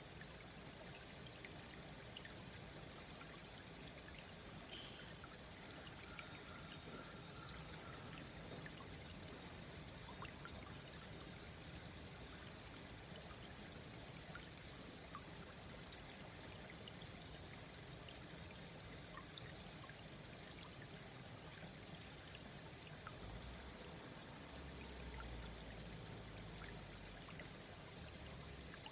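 Small woodland stream gently babbling and trickling over its bed, a faint, steady water sound. A low rumble comes in briefly about 23 seconds in.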